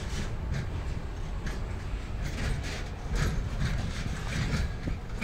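Freight train rolling past: a steady low rumble with repeated sharp clacks, about two a second, as the wagon wheels cross rail joints.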